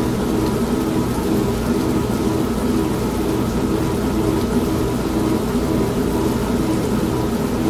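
Old manual washing machine running with a steady, regularly pulsing hum, mixed with the even hiss of steady rain.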